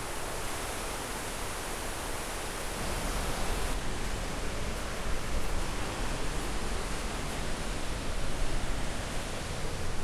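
Steady rushing roar of the Reekie Linn waterfall running high with thaw water, with rough wind-like rumble on the microphone. It grows louder and rougher about three to four seconds in.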